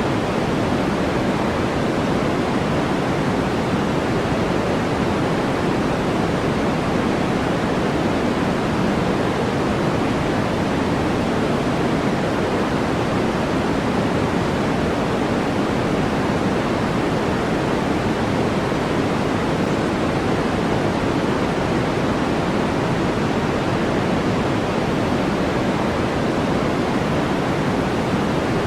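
Steady synthetic masking noise of a white-noise sleep track: an even, unchanging hiss with no events. Its energy leans toward the lower tones, so it sounds softer and deeper than flat white noise, nearer to pink noise.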